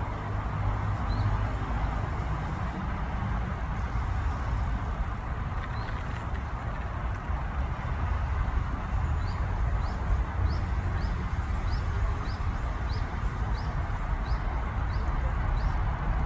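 Steady outdoor background rumble and hiss. A bird gives short, high, rising chirps: two on their own, then a run of about a dozen evenly spaced, roughly one every half second, in the second half.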